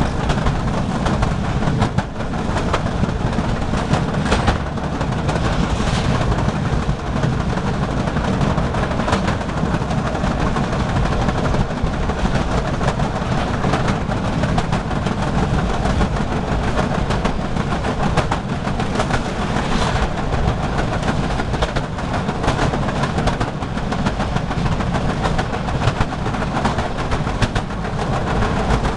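Metre-gauge train running: a steady rumble with the wheels clattering over rail joints in frequent sharp clicks.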